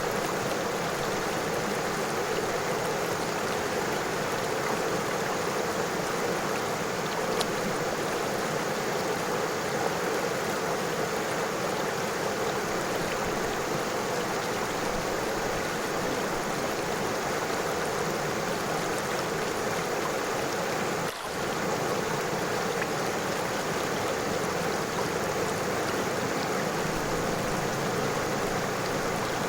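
River water flowing and splashing over stones: a steady rush that dips briefly once, about two-thirds of the way through.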